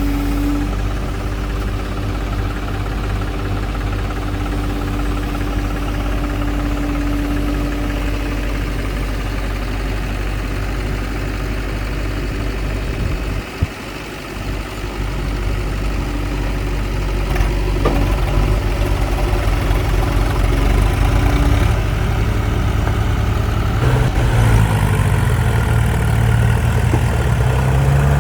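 Diesel engine of a tractor or backhoe loader running steadily. It dips briefly about halfway through, then runs louder, with its pitch rising and falling near the end.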